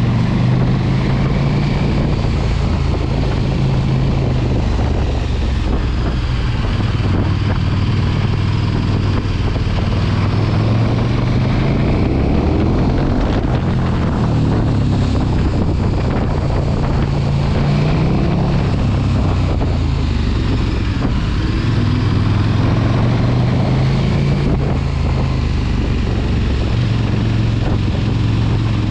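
Motorcycle engine running while riding, its pitch shifting a little with the throttle, with steady wind noise on the microphone.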